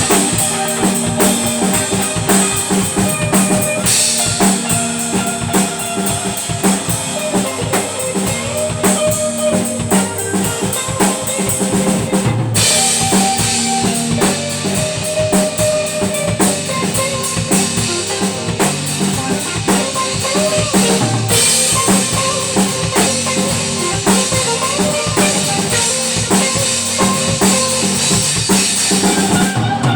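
A band playing, with the drum kit to the fore: a steady kick-and-snare beat under held pitched instrument lines.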